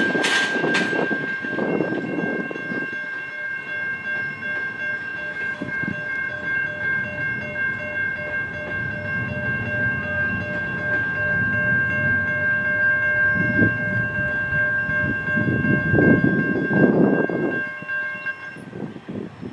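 A train at a railroad junction, with a steady high-pitched tone held over a low rumble that swells and fades. The tone cuts off suddenly near the end.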